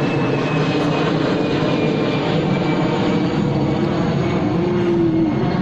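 Airplane flying overhead: a steady engine rush, with a faint high whine slowly falling in pitch as it passes.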